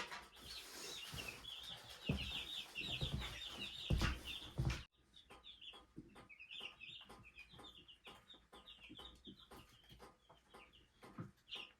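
Baby chicks peeping in rapid, continuous high chirps. A few dull thumps sound in the first five seconds, and the background noise drops abruptly about five seconds in while the peeping carries on.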